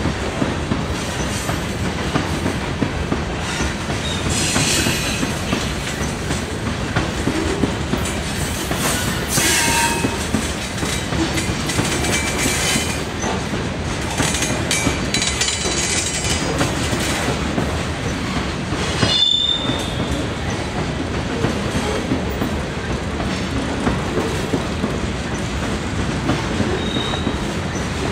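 Canpotex potash covered hopper cars rolling past on CN freight train 759, their wheels clacking steadily over the rail with several brief high-pitched wheel squeals, the loudest a little past halfway.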